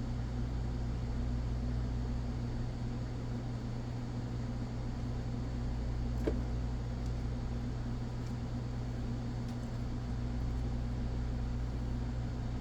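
Steady low mechanical hum, even throughout, with one faint tick about six seconds in.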